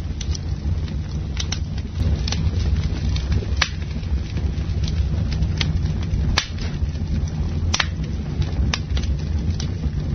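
Campfire burning: wood crackling, with sharp pops scattered irregularly over a steady low rumble.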